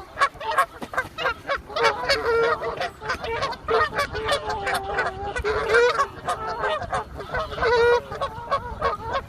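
Geese honking over and over in a noisy, overlapping clamour while fighting one another.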